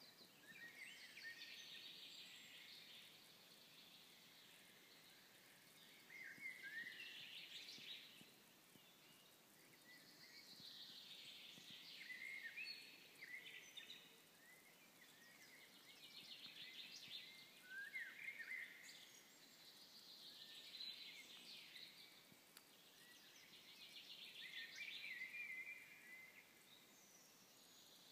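A songbird singing, faint, repeating the same short phrase about six times, every four to five seconds; each phrase runs down in pitch and ends in a quick flourish.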